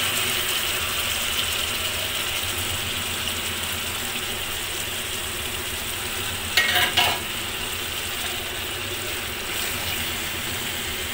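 Marinated chicken strips sizzling and crackling in hot oil in a frying pan while being stirred with a silicone spatula. A short louder burst of clicks comes about six and a half seconds in.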